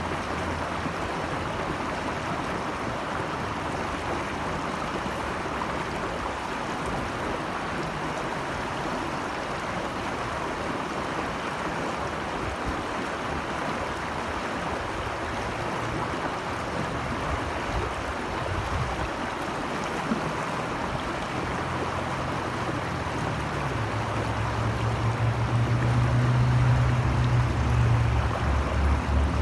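Running water rushing steadily, as from a stream or small waterfall. A low rumble builds up in the last few seconds.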